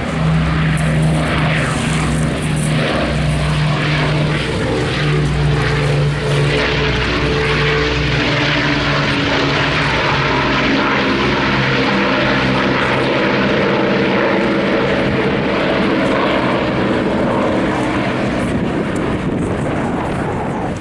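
Avro Lancaster B1's four Rolls-Royce Merlin piston engines running as the bomber flies by, a steady propeller drone. The pitch of the engine note shifts partway through as it passes.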